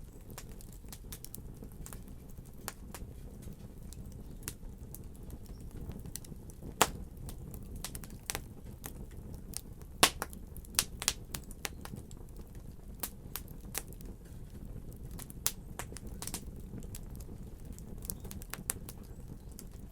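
Fire crackling: irregular sharp pops and snaps over a low steady rumble, with a few louder snaps about a third and halfway through.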